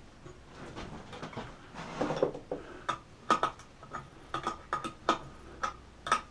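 Irregular light clicks and clinks, more than a dozen, several with a short metallic ring: small parts or tools being handled on a workbench. A brief rustle comes about two seconds in.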